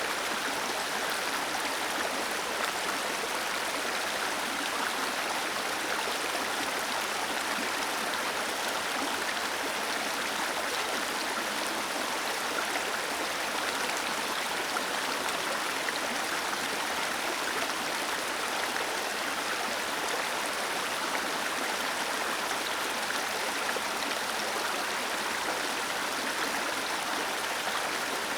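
Water cascading over a small waterfall: a steady, even rush with no breaks and little low rumble.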